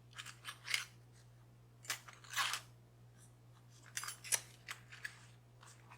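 Small metal lock-picking tools (picks and tension wrenches) being handled, clicking and scraping against each other in a few short clusters. A steady low hum runs underneath.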